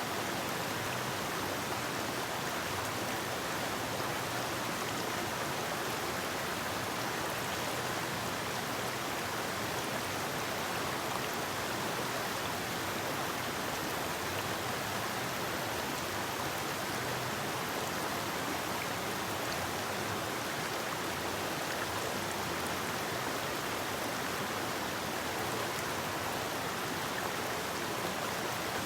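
Forest river flowing: a steady, even rush of running water.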